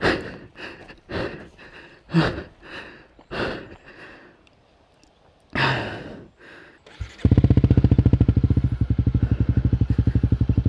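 A person breathing hard in separate loud breaths. About seven seconds in, a motorcycle engine starts and settles into a loud, evenly pulsing idle.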